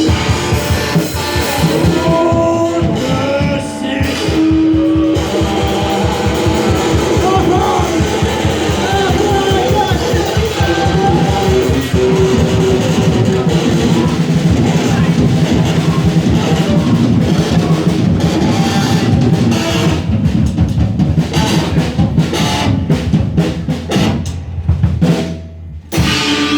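Rock music with a drum kit and guitar playing loudly and steadily. The sound dips briefly about two seconds before the end, then comes back.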